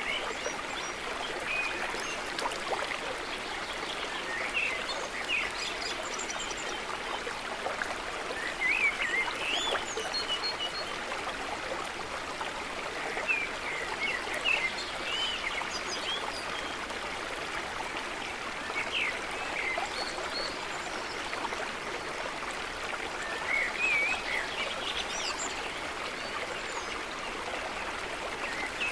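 A stream running steadily, with birds calling in short, quick phrases every few seconds over the water.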